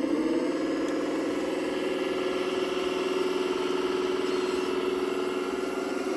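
A radio-controlled construction machine model running steadily, a constant mechanical hum with an even pitch and no change in speed.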